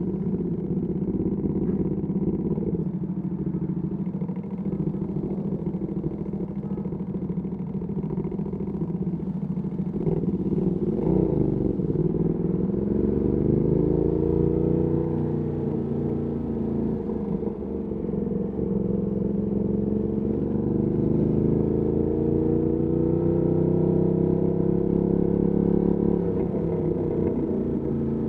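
Ducati Panigale V2S V-twin through a Termignoni exhaust, running at a steady pitch at first. About eleven seconds in, the revs rise as it accelerates, and again later on.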